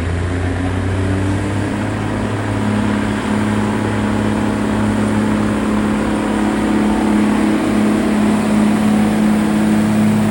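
Semi truck's diesel engine running at high revs under full load during a sled pull: a loud, steady drone that swells a little near the end.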